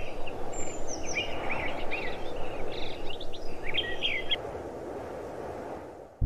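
Small birds chirping in quick repeated calls over a steady outdoor hiss; the chirps stop about four seconds in and the hiss fades.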